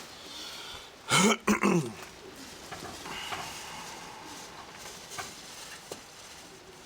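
A person coughs twice in quick succession about a second in, loud and short, over a steady hiss of rain.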